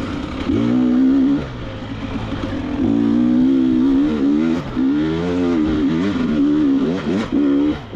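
KTM 300 XC-W two-stroke dirt bike engine revved in about five short throttle bursts, its pitch rising and falling between each, as the bike is worked over rocks.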